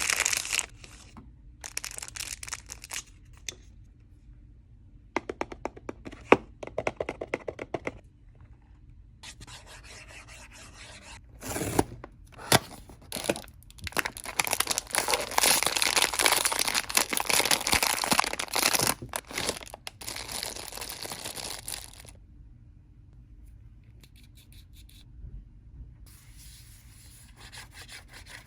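Blind-box packaging being opened by hand: bursts of tearing and crinkling with short pauses between them. The longest and loudest stretch of crinkling comes in the middle, then it falls back to a few softer rustles.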